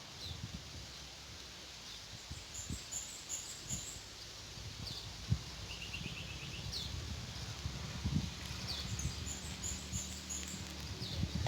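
White-eyes giving short, thin, high call notes every couple of seconds, with a brief rapid trill around the middle, over a low rumble and soft thumps.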